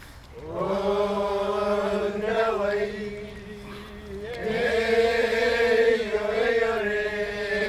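Chanting in long held notes: two phrases, the first starting about half a second in and the second about four seconds in, with a short dip between.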